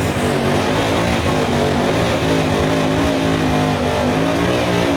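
Ford Mustang engine running loudly at steady, held revs, with a dense hiss over it.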